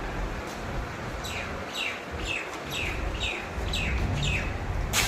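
A bird calling: a run of about seven short chirps, each sliding down in pitch, roughly two a second, over a steady low rumble. A sharp click comes at the very end.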